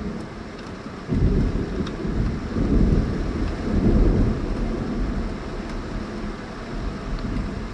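Thunder rumbling over steady heavy rain in a tropical thunderstorm: a rumble breaks in suddenly about a second in, swells twice more, then fades to a lower roll under the rain.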